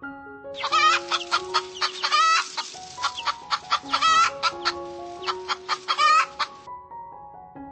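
Chickens clucking in a quick run of short calls, with a few louder wavering calls among them, over soft piano music. The calls start about half a second in and stop shortly before the end.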